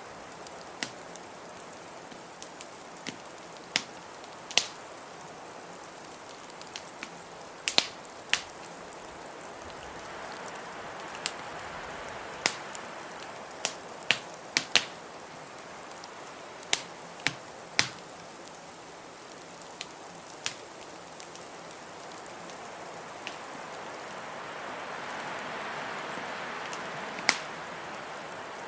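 Wood fire crackling with sharp, irregular pops over the steady rush of blizzard wind. The wind swells about ten seconds in and again, more strongly, near the end.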